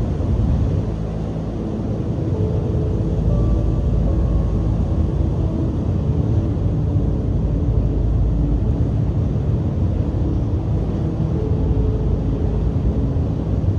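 Strong coastal wind rumbling on the microphone over the wash of waves breaking on the shore, a loud, steady low roar.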